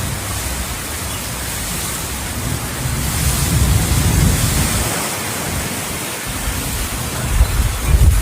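Heavy monsoon rain pouring down as a steady hiss, with uneven low rumbling underneath.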